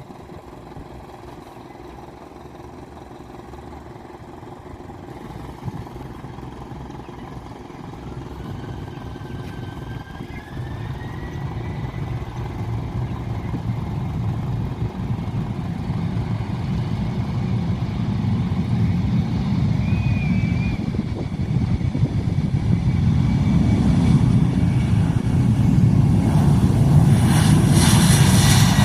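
Aircraft engine noise growing steadily louder as the plane approaches. A whine rises in pitch about a third of the way in, and a loud rushing roar builds near the end.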